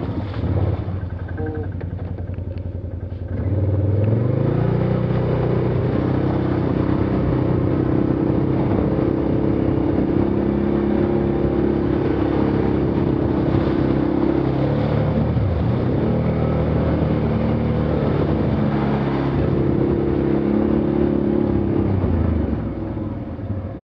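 A quad bike's engine is pulling hard at high revs through its CVT belt drive, as in heavy mud. It rises sharply a few seconds in, dips briefly about two-thirds of the way through, climbs again and eases off near the end.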